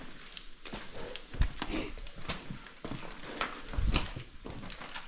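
Footsteps scrambling over the rough rocky floor of a lava tube: irregular clacks and scuffs of boots on rock, with two heavier thumps about a second and a half in and again about four seconds in.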